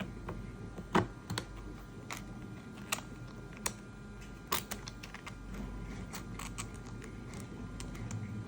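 Irregular light clicks and taps of small hard objects, the loudest about a second in, over a faint steady hum.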